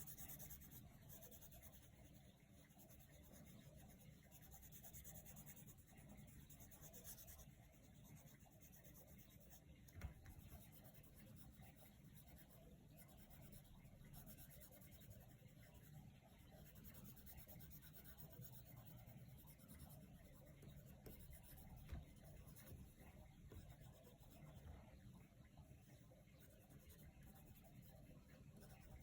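Coloured pencil shading on paper: a faint, continuous scratching and rubbing of the lead, with two small taps along the way.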